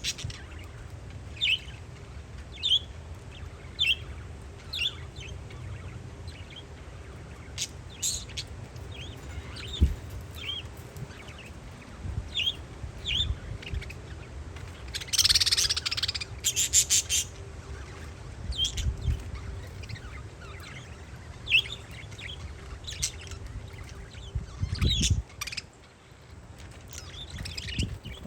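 Parakeets chirping in short, repeated calls, with a louder, harsher run of calls about 15 seconds in. Wind buffets the microphone with a low, gusting rumble underneath.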